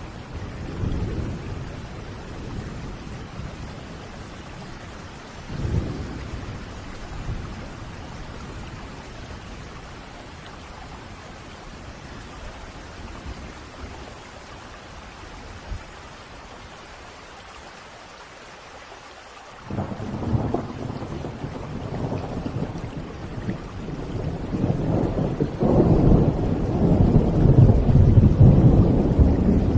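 Steady rain with rolling thunder. A rumble of thunder about a second in and another around six seconds, then the rain alone, until a loud peal breaks at about twenty seconds and rumbles on, growing louder toward the end.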